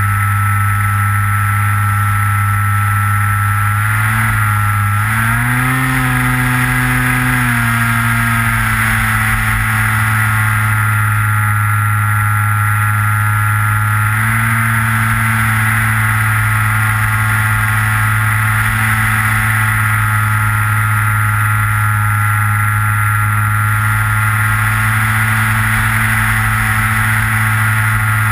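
Electric motor and propeller of a Skywalker FPV model plane, heard from the onboard camera: a steady buzzing drone that rises in pitch about five seconds in as the throttle comes up, settles after a couple of seconds, and lifts slightly again near the middle.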